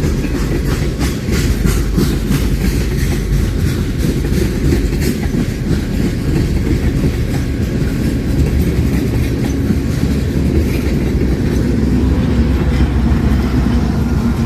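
Train rolling past close by: a steady low rumble of wheels on rail, with a quick run of clicks from the wheels crossing rail joints in the first few seconds.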